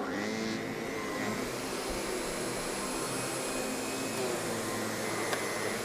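Miele canister vacuum with an SEB 236 electric power brush, switching on and running steadily: a dense rushing airflow with a thin high motor whine.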